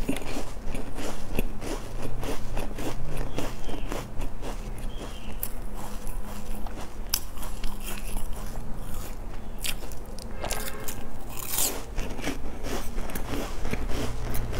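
Close-miked chewing and crunching of a chocolate-coated, sesame-topped snack bar, a dense run of irregular crackles and crunches.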